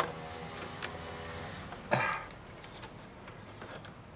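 A sharp knock, then a short scrape about two seconds in, as a car AC compressor is worked free of the engine bay.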